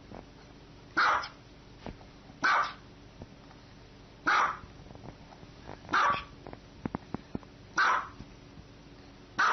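A dog barking in single sharp barks, six in all, about one every one and a half to two seconds.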